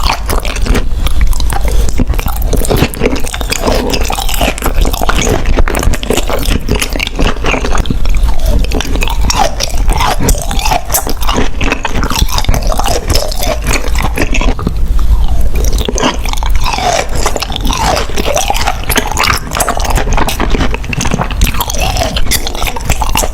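Close-miked eating sounds of someone chewing and biting food: a dense, continuous run of small clicks and mouth smacks.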